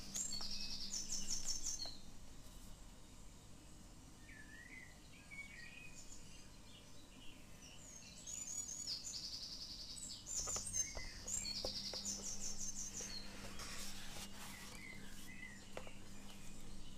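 Small songbirds chirping and trilling in short repeated phrases, now and then, with a few soft taps and rustles of sketchbook paper being handled.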